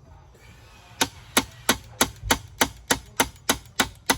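Hammer tapping in wedges that clamp a glued, broken birdbath together: a steady run of sharp blows, about three a second, starting about a second in.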